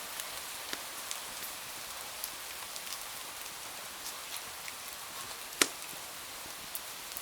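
Steady rain hiss with a wood fire crackling in a fireplace: scattered small clicks and one loud pop about five and a half seconds in.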